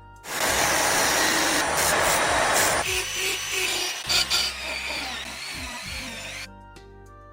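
Harsh scraping of a tool abrading a workpiece, loud for about two and a half seconds and then fainter and broken up, fading out over background music with soft sustained notes near the end.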